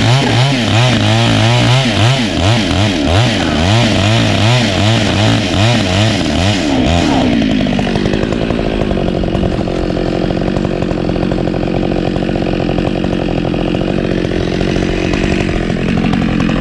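Chainsaw running under load as it cuts into a storm-downed tree trunk, its pitch wavering as the bar bites. About seven seconds in, the engine note falls and settles lower, then climbs again near the end.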